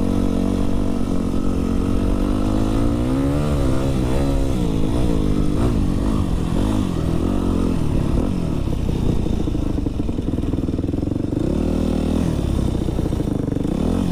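Dirt bike engine running under way, its pitch rising and falling with the throttle: several quick swings up and down a few seconds in, then steadier running, with another rise near the end.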